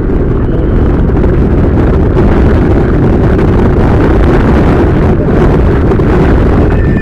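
Wind buffeting the microphone of a camera riding along on a moving bicycle: a loud, steady, rumbling roar with no let-up.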